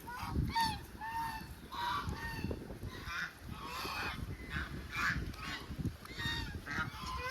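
A flock of waterfowl at close range calling over and over, short nasal honking calls from several birds overlapping, about two a second.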